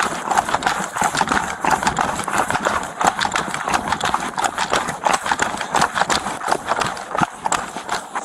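Footsteps of a person running on foot, a quick, irregular clatter of knocks and rubbing close to the microphone.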